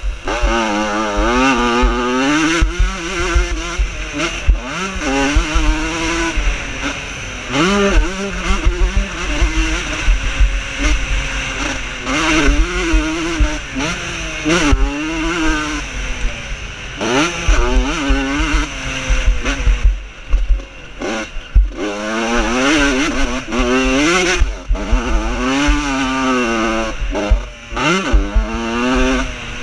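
Vintage motocross motorcycles racing, several engines at once revving up and falling back over and over as the bikes ride the course.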